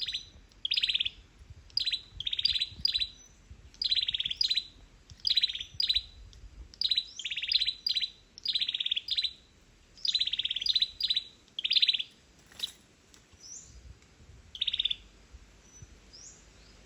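A small songbird, the chim sâu dừa, giving short, high, rapidly pulsed chirping trills over and over, often two close together, about one group a second, with a brief pause about three-quarters of the way through.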